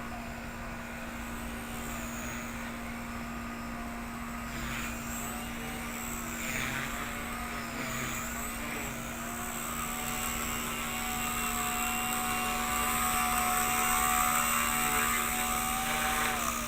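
Blade 130 X electric RC helicopter in flight, its motor and rotor whine wavering up and down with the throttle, then holding steady before dropping in pitch right at the end. It is flying on a stripped main gear that is missing about ten teeth.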